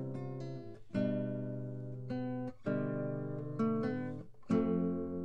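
Background music: an acoustic guitar strumming chords, each one left to ring out before the next, about one a second.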